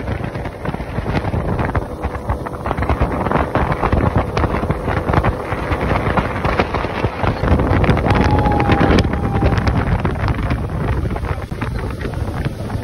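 Wind buffeting the microphone on a motorboat running under way, with the boat's engine and the hull on the water beneath it.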